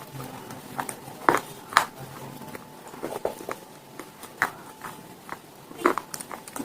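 Close-up crunching and chewing: hard pieces cracking between the teeth in irregular, sharp crunches, a few louder cracks standing out.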